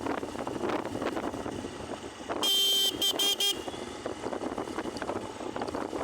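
Vehicle horn honking: one long honk about two and a half seconds in, then two quick short ones. Underneath runs steady wind rush on the microphone and road noise from riding.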